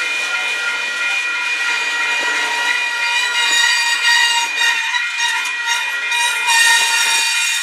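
Union Pacific freight train passing close by, with a steady, high-pitched metallic squeal of several ringing tones from its steel wheels on the rails over a continuous hiss.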